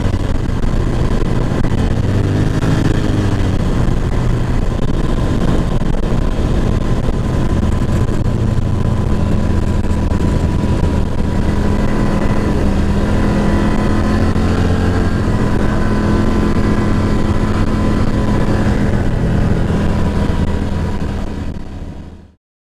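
Off-road vehicle engine running steadily while riding, heard from aboard, with a steady whine over it and its pitch rising and falling briefly a couple of times. The sound fades out near the end.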